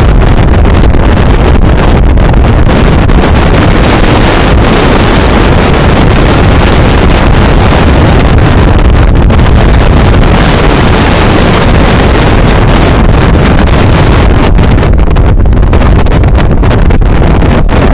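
Loud, continuous wind battering the microphone in a storm, a steady rush with a heavy low rumble and no let-up.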